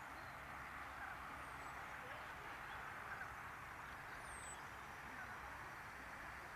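Faint open-air ambience: a steady background hiss, with two thin, high, falling bird chirps a few seconds apart.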